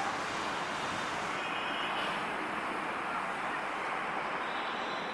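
Meter-gauge PT INKA passenger coaches rolling past on the rails: a steady noise of wheels on track, with no horn or clear engine note.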